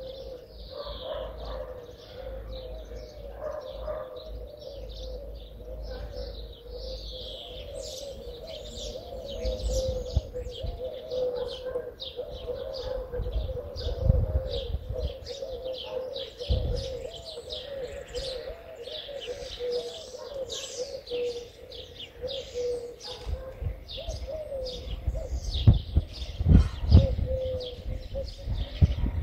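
Small birds chirping, a dense run of short high chirps, over a steady low wavering tone. A few low rumbles come in the second half, the loudest near the end.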